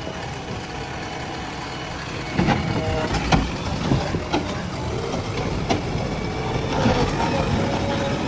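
Heavy vehicle engine running. It gets louder about two seconds in, with a string of sharp knocks and clanks over it.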